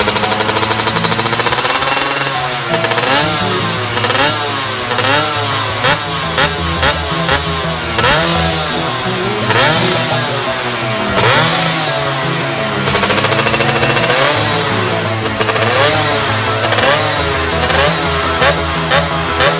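Motorcycle with an aftermarket racing exhaust being revved over and over, the engine pitch sweeping up and falling back with each throttle blip, at times in quick bursts.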